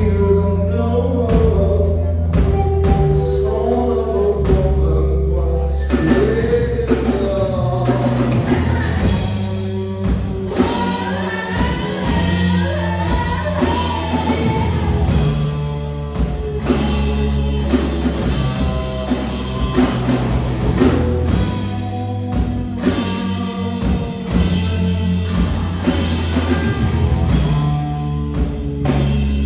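Live rock band playing loudly: drum kit, electric guitar and bass, with a singer whose voice slides between notes.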